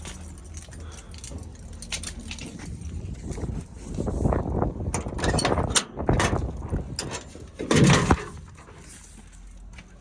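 Clicks, rattles and scraping of plastic and metal parts being worked loose, as a truck's instrument cluster is pulled from the dashboard, with heavier handling noise in the middle and a loud knock about eight seconds in.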